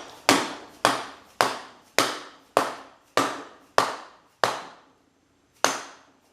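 Hammer blows driving a new front ball bearing onto an electric motor's rotor shaft: about ten sharp metallic strikes, roughly one every half-second, each ringing briefly, with a short pause before the last two. The sound of the blows tells when the bearing hits the shaft shoulder and is fully seated.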